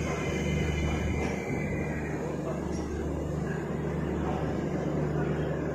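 Passenger train running: a steady rumble with a constant low hum.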